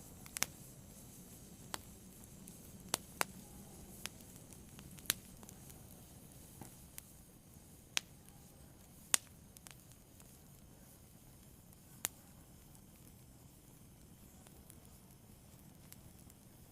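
Fire burning: a low steady rush with irregular sharp crackles and pops, about a dozen of them, thinning out over the last few seconds.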